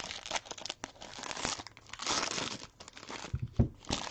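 Plastic shrink wrap crinkling and tearing as a sealed box of trading cards is opened, with a couple of soft knocks near the end.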